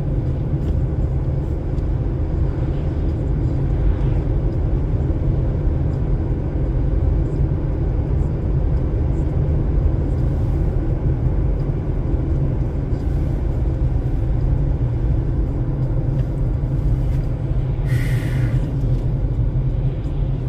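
Steady low rumble of a car's tyres and engine, heard from inside the car while it drives along a highway. A brief hiss cuts in near the end.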